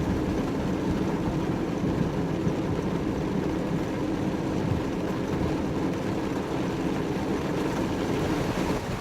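Steady low rushing of heavy rain and wind, with no break.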